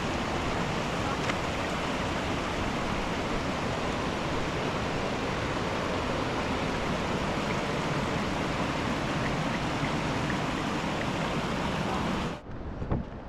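Rushing water of a mountain river, a steady unbroken rush. It cuts off abruptly near the end, leaving a quieter background with a couple of knocks.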